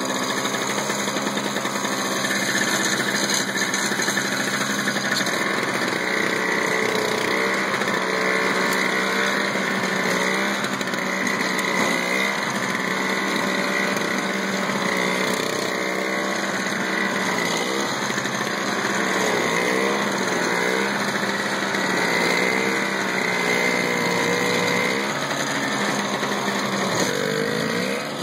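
Toro CCR single-stage snowblower's small two-stroke engine running steadily as it warms up after starting, its pitch wavering slightly from about ten seconds in.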